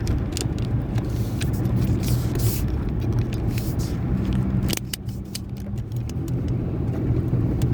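Car driving, heard from inside the cabin: steady engine hum and road rumble, with repeated short crunching clicks from the phone holder on the dash rattling as the car moves.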